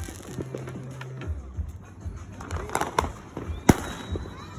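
Fireworks going off: a string of sharp bangs and cracks, the loudest about three and a half seconds in.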